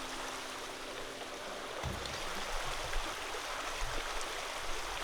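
The last acoustic guitar note dies away in the first second and a half over a steady rushing noise, which carries on with a few soft low thumps.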